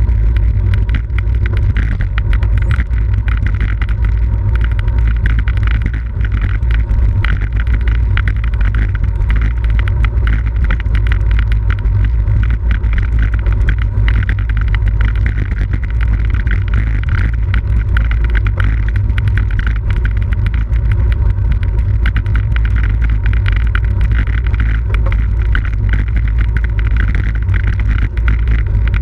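Steady, loud wind rush and rumble over the microphone of a camera riding on a road bicycle at race speed.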